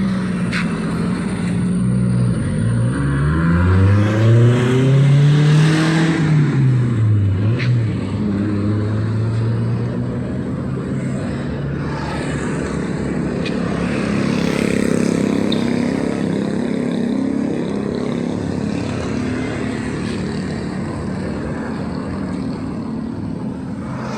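Street traffic: a vehicle's engine revs up and falls back in pitch a few seconds in, the loudest moment, then the steady hum of passing engines and tyres.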